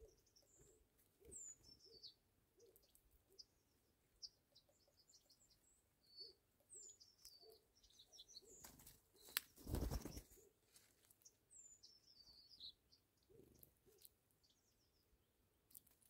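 Faint small-bird chirps: short, high calls scattered throughout, several sliding down in pitch. Soft low clicks run underneath, and a louder rustling bump with a sharp click comes about nine seconds in.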